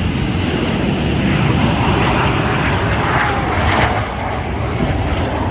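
Jet engines of the Patriots Jet Team's Aero L-39 Albatros trainers at full takeoff power, a loud, steady rushing noise that swells a little in the middle as the formation departs.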